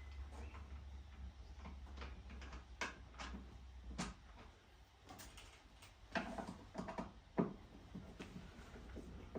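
Irregular clicks and knocks of hard plastic parts and a hand tool being handled while assembling a Kärcher K5 pressure washer, with the sharpest knocks about six and seven seconds in, over a steady low hum.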